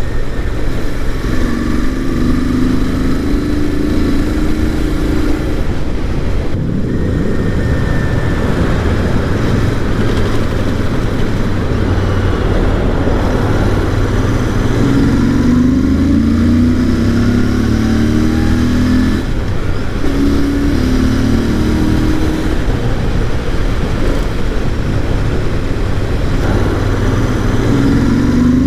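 Royal Enfield Interceptor 650's parallel-twin engine through its stock exhaust, pulling under way and rising in pitch several times, with brief dips between as it shifts through the gears. The note is deep and bassy, fed through a K&N air filter and air filter plate.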